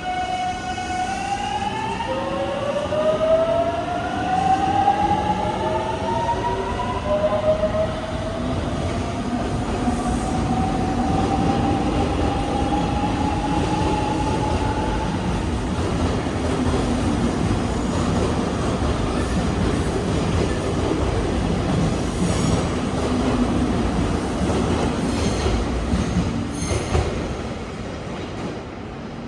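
Electric train pulling out of a station. Its motor whine rises in pitch over the first fifteen seconds as it picks up speed, then gives way to steady running noise with a few wheel clicks near the end.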